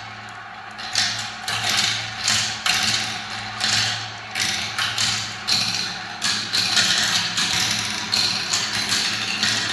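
Marbles rolling and clattering down a spiral marble-run track: a dense, irregular stream of clicks and knocks over a steady low hum.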